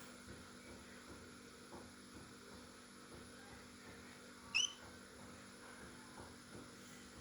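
A cockatiel gives one short, rising chirp about four and a half seconds in, over a steady electrical hum.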